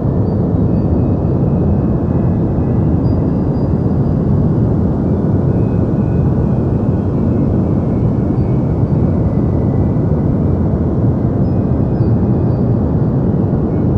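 Deep white noise for sleep: a steady, even rush of noise, weighted toward the low end like a low rumble, with no changes or breaks.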